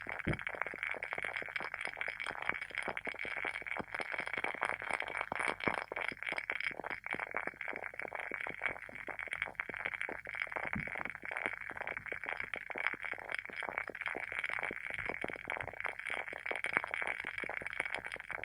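WoodWick candle's wooden wick burning with a continuous fast crackle of small pops, a few louder pops standing out just after the start and about eleven seconds in.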